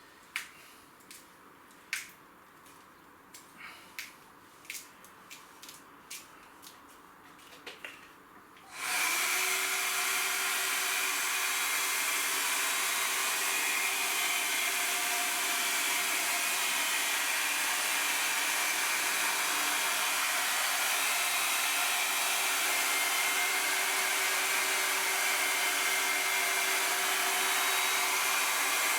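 A few light clicks, then about nine seconds in a hot-air blower switches on and runs steadily with a hiss and a steady hum, heating the vinyl sticker on a motorcycle wheel rim.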